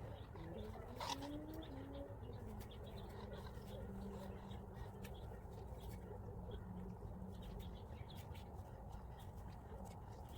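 Faint backyard ambience: a bird calls a short series of low notes in the first two seconds, followed by a low steady drone and scattered soft clicks.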